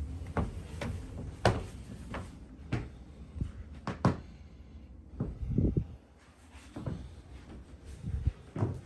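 Doors being handled: a series of irregular sharp knocks and clacks, with a duller cluster of thumps a little past halfway.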